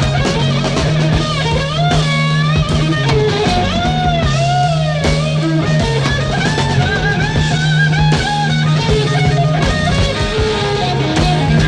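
Blues-rock band music: a lead guitar plays a solo full of bent notes over steady low bass notes and a drum kit.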